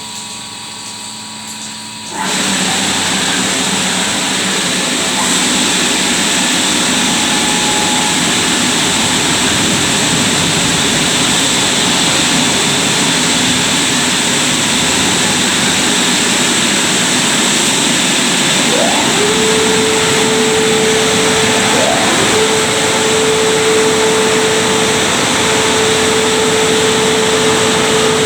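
Christ Genius gantry car wash running, with a loud steady rushing noise that starts suddenly about two seconds in. About two-thirds of the way through, a steady hum joins it after two short rising whines.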